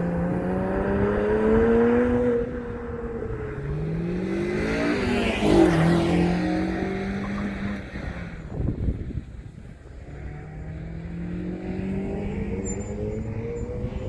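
Porsche Cayman R's flat-six engine revving hard on an autocross course, its pitch climbing and dropping again and again as it accelerates and lifts off. It is loudest about five and a half seconds in, then falls away and builds up once more near the end.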